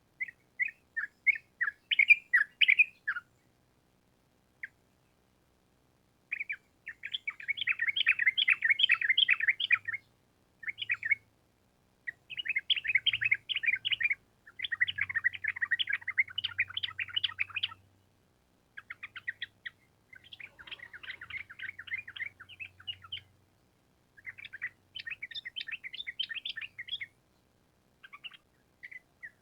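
Yellow-vented bulbul (trucukan) singing: phrases of fast, bubbling chattering notes lasting one to four seconds each, separated by short pauses, with one longer pause a few seconds in.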